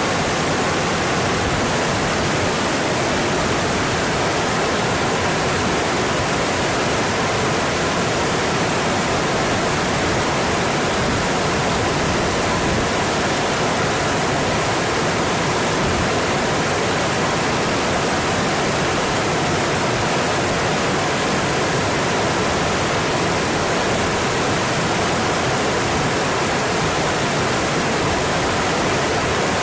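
Mountain stream flowing: a steady, even rush of water that does not change.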